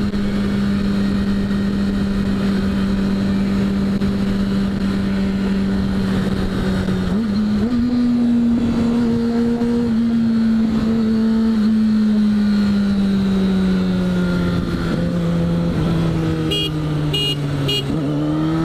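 600 cc sportbike engine running at a steady high speed, an even drone that steps up slightly about seven seconds in and slowly drops in pitch over the last few seconds as the bike slows.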